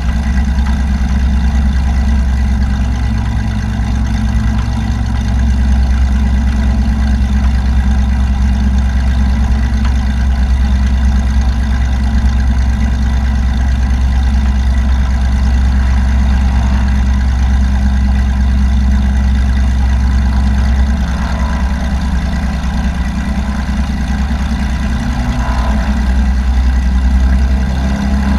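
Light aircraft's piston engine and propeller running steadily, a loud, even drone whose low tone shifts slightly about two-thirds of the way through.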